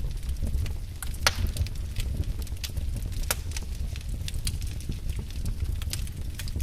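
Wood fire burning in a fireplace, crackling with irregular sharp pops over a steady low rumble of the flames; the loudest pop comes about a second in.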